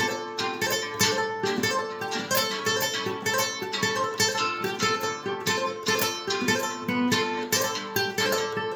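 Acoustic guitar played in Spanish style, improvised: a quick, steady run of plucked notes with strums mixed in.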